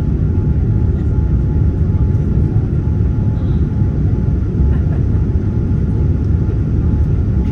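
Steady, deep jet-engine and airflow noise of a Boeing 787-9 Dreamliner heard from inside the passenger cabin, with a faint steady whine above it.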